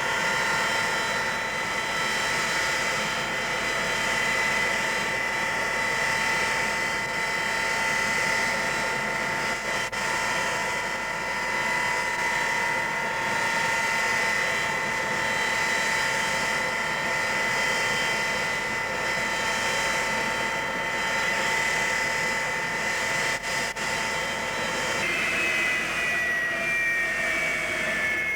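Avro Vulcan B2's four Rolls-Royce Olympus turbojet engines running, a steady high whine over a rushing roar. Near the end the whine tones shift and slide downward in pitch.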